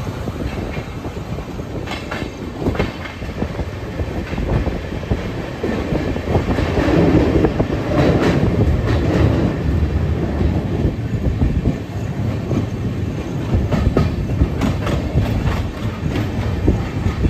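Open-top steel freight wagons of a goods train rolling past close by: a continuous heavy rumble of wheels on the rails, broken by repeated clacks.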